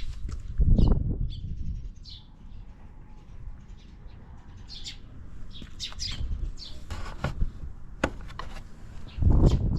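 Small birds chirping again and again in short high notes, with two loud low rumbles about a second in and near the end.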